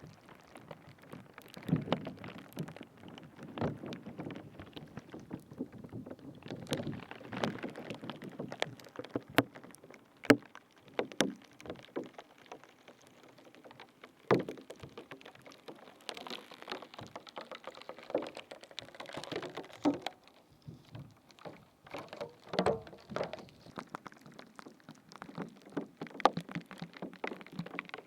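Close-miked ASMR trigger sounds into a binaural microphone: an irregular run of wet-sounding squishes, crackles and sharp clicks, without talking.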